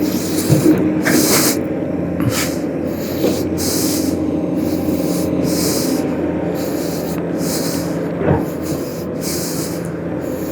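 A steady engine hum, with short hissing bursts about once a second over it.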